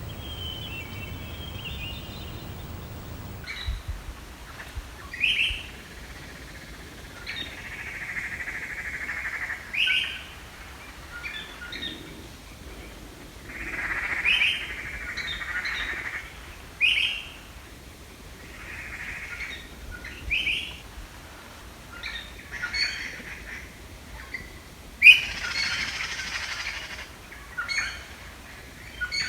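Birds calling repeatedly: short sharp chirps, some followed by harsher chattering phrases a second or two long, every few seconds.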